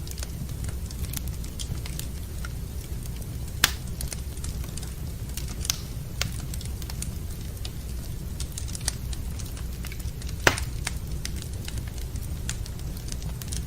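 Wood fire crackling in a fireplace: scattered sharp pops and clicks over a steady low rumble, with two louder pops, about three and a half seconds in and near ten and a half seconds.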